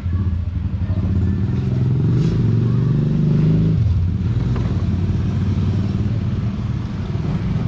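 A motorcycle engine running steadily, its pitch rising briefly for a second or two and falling back about four seconds in.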